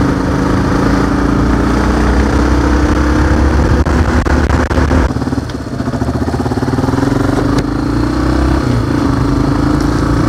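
Single-cylinder trail motorcycle engine running under way, easing off briefly about halfway and then picking up again with a slight rise in pitch.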